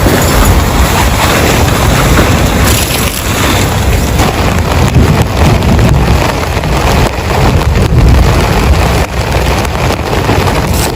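Heavy rain pouring down hard, a loud, steady wash of noise with a strong low end.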